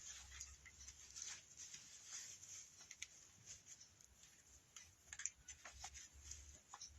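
Near silence with faint, scattered small clicks and rustles of craft materials being handled at a work table.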